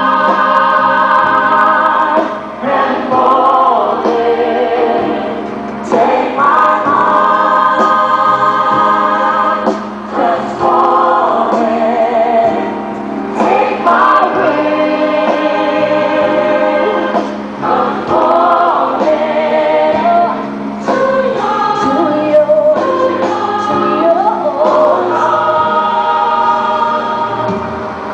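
A gospel choir singing in sustained phrases a few seconds long, with a steady low hum under it.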